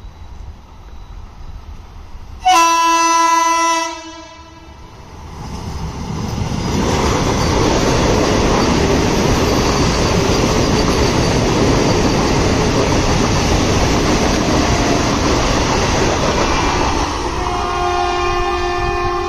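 An Indian Railways electric train's horn sounds one loud blast lasting about a second and a half. Then a train runs past at speed, a steady loud rush with wheel clatter. Near the end a second horn starts at a slightly different pitch and holds.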